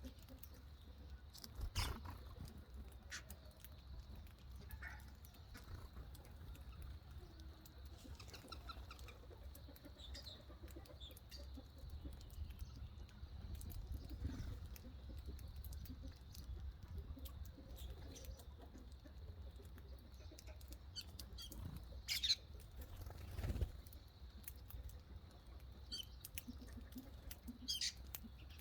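Small birds giving short, scattered high chirps and squeaks, with frequent little clicks and rustles and a steady low rumble underneath; two louder chirps come near the end.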